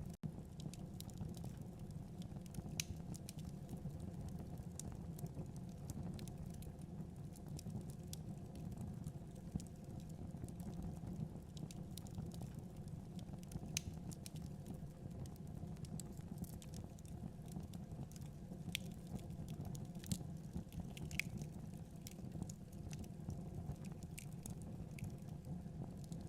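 Wood fire burning in a fireplace: a steady low rumble of the flames with irregular crackles and pops from the burning logs.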